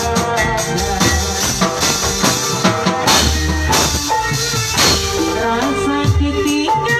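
Live band music with a hand tambourine jingling in rhythm over a steady low beat and held instrumental notes.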